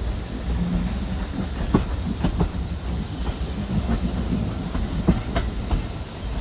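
A train running past, its wheels clicking irregularly over the rail joints above a steady low rumble.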